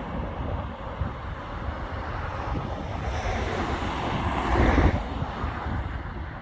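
Wind buffeting the microphone, a rumbling rush with a stronger gust about four and a half seconds in.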